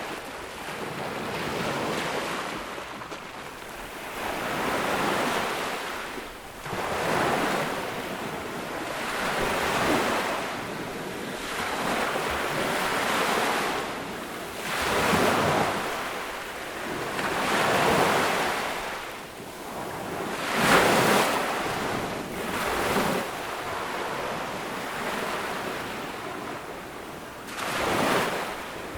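Small ocean waves breaking and washing up on a beach, coming in surges every two to three seconds, the strongest about twenty-one seconds in.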